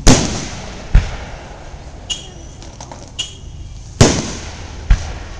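Aerial fireworks shells bursting overhead: four sharp booms, the first the loudest and echoing out, with two fainter pops and a brief crackle in between.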